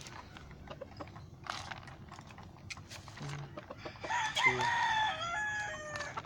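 A game-fowl rooster crowing once: a call of about two seconds starting about four seconds in, falling in steps at its end. Scattered small clicks and taps come before it.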